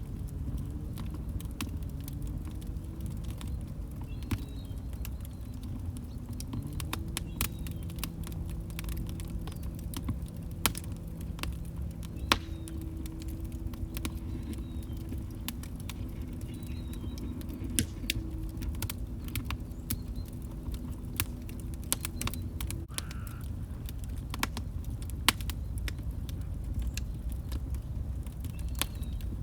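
Wood log fire crackling: irregular sharp pops and snaps over a steady low rumble of burning. A faint wavering low tone sounds beneath it for the first two-thirds, then stops.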